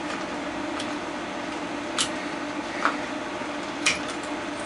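Three short sharp clicks of hard plastic parts and tools being handled while a plastic prop is pried at, over a steady low background hum.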